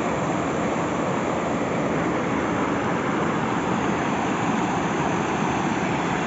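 A waterfall's water falling and rushing steadily, an even continuous noise.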